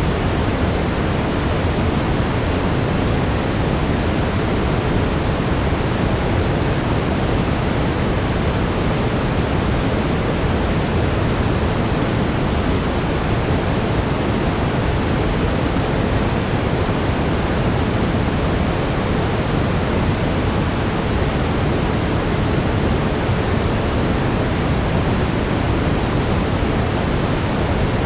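Steady brown noise, an even, unchanging rush with most of its weight in the low end.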